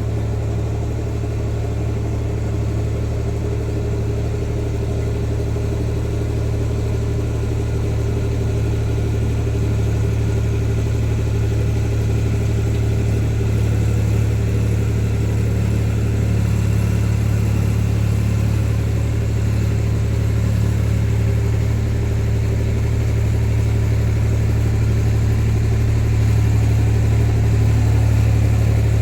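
Tractor engine running steadily under load, a continuous low drone that grows slightly louder toward the end.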